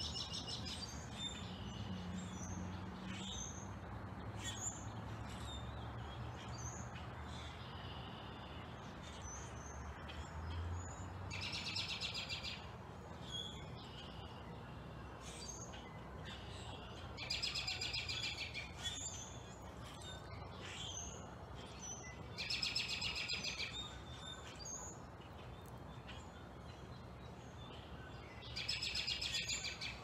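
Birds calling: short high chirps throughout, with a louder buzzy, trilling phrase of a second or so that comes four times, about every five or six seconds, over a steady low background rumble.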